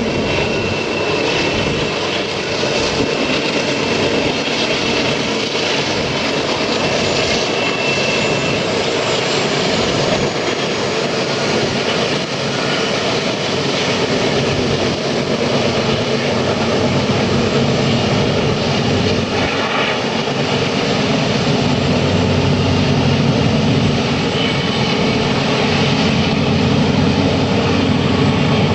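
A train running, a loud steady rumble with wheel-on-rail noise and no break in the sound.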